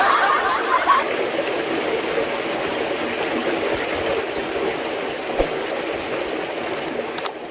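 Steady running water, a continuous trickling stream, a little louder in the first second.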